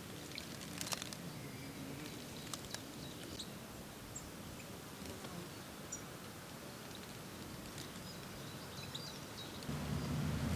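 Small songbirds giving scattered short, high chirps and ticks over a steady outdoor background hiss, with a low rumble coming in near the end.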